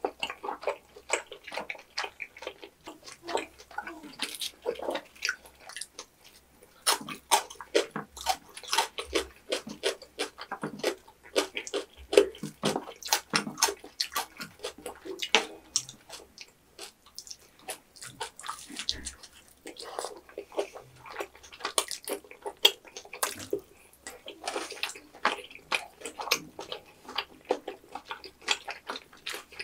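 Close-up eating sounds of tteokbokki in thick sauce: wet, sticky chewing and smacking, as a stream of irregular short clicks and squelches.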